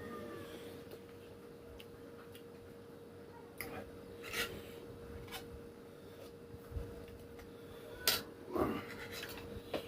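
A person eating: chewing and mouth sounds with a handful of short clicks and knocks, over a steady faint hum.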